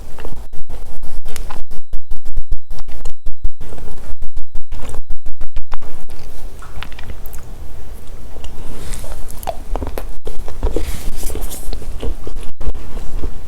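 Loud crackling and humming from a badly connected microphone, cutting out again and again for fractions of a second, most often in the first half. Eating sounds come through underneath.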